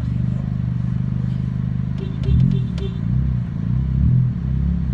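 Steady engine and road drone inside a moving car's cabin. From about two seconds in, a nearby car's engine is revved in a quick series of short rises and falls, about one every half second.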